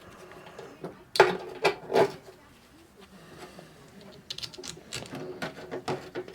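Metal knocks and clicks of a hand tool and bolts as the blower motor's mounting bolts are run back in: a few sharp knocks a little over a second in, then a run of quick small clicks near the end.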